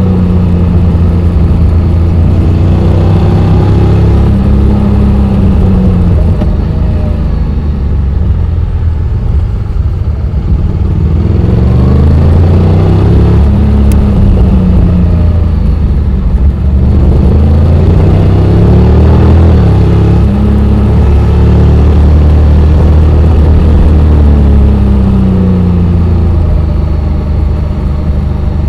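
Honda X-ADV 750's 745 cc parallel-twin engine running under way, its pitch repeatedly rising and falling as the revs climb and drop.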